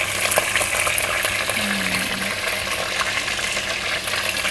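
Chicken pieces sizzling and crackling steadily in hot oil in a pot, with lots of small pops.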